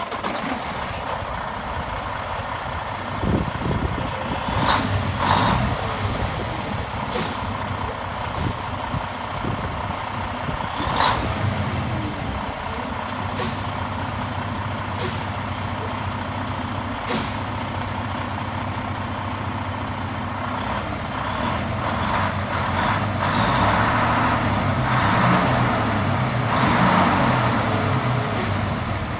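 Detroit DD15 14.8-litre inline-six diesel in a Western Star 5700XE semi truck idling just after starting, revved up briefly a few times, with a longer run of revving near the end. Several short sharp hisses of air cut in between the revs.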